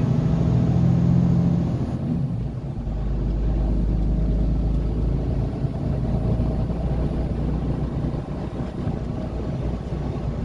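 A car driving, heard from inside the cabin: a steady low rumble of engine and road noise, with a steadier hum in the first two seconds before it settles into a deeper drone.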